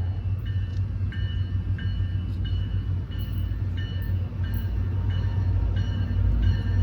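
A train rumbling steadily while a bell clangs in an even rhythm, about one and a half strokes a second, starting about half a second in.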